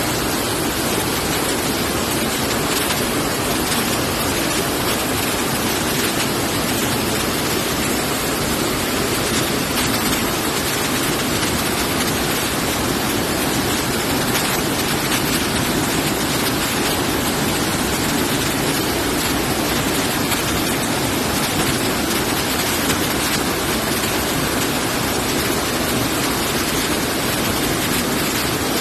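Large spring-fed waterfall pouring down, a loud steady rush of water.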